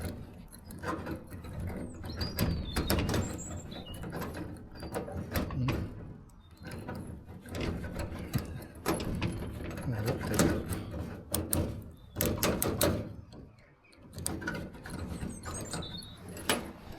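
A key being worked in a padlock that won't open: irregular metallic clicks and rattles, with short pauses between tries.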